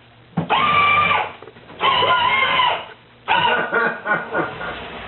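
Child's battery-powered ride-on motorcycle playing its engine-rev sound effect through its small speaker after the pedal is pressed: three loud, held calls of about a second each, the last trailing off with a falling pitch.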